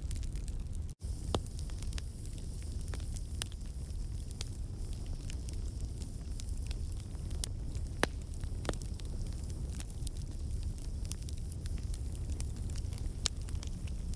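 Wood campfire burning, with irregular sharp crackles and pops over a steady low rumble and a faint hiss. The sound cuts out completely for a split second about a second in.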